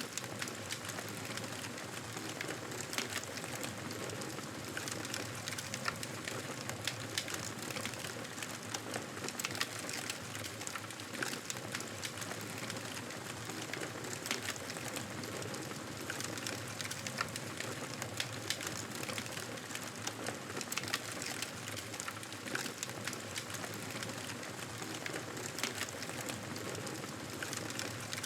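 Campfire crackling: a steady hiss with frequent small, sharp pops and snaps scattered throughout.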